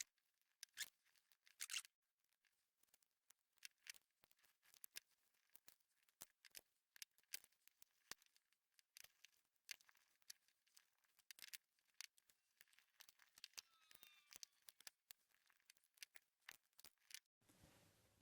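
Faint, irregular crisp snips and clicks of vegetable-tanned leather being cut to size for snooker table pocket strips.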